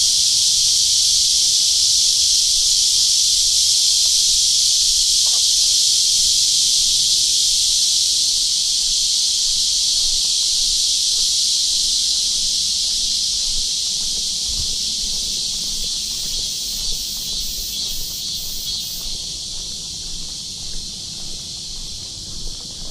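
Chorus of cicadas buzzing steadily, a dense high-pitched hiss that slowly fades over the second half.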